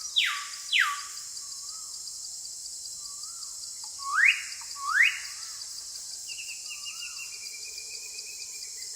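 Bird calls: two quick downward-sweeping whistles near the start, two upward-sweeping whistles about halfway through, then a short high trill, over a steady high hiss.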